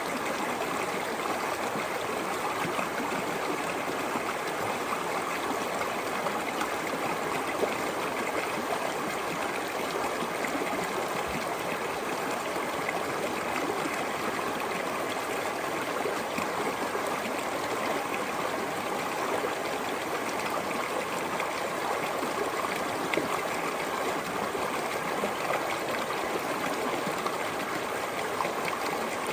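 Small stream flowing steadily over stones, a continuous babbling and trickling of running water.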